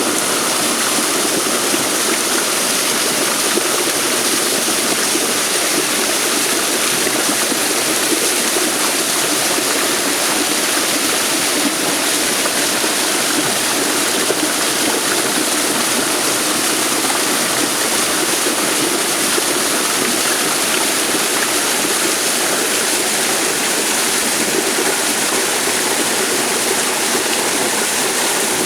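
Water rushing steadily, as of a stream or small waterfall, with an even, unbroken sound.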